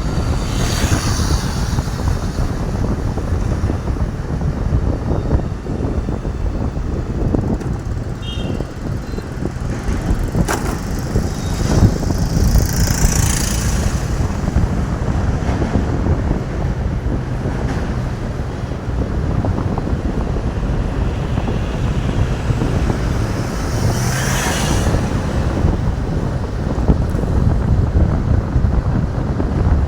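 Motorcycle being ridden on the road: steady engine rumble mixed with wind noise on the microphone, with a couple of brief whooshes, about a third of the way in and near the end.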